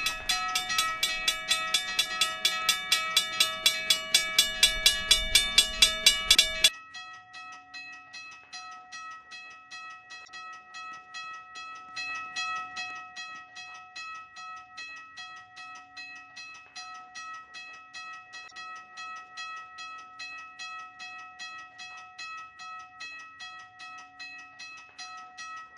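US&S teardrop railroad crossing bell ringing in rapid, even strokes. About a quarter of the way through the loud ringing cuts off suddenly, and fainter, steady strokes of a bell keep going.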